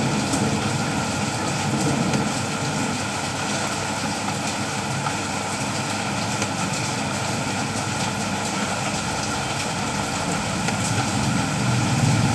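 Steady afternoon rain falling, an even hiss of drops with a low rumble beneath it.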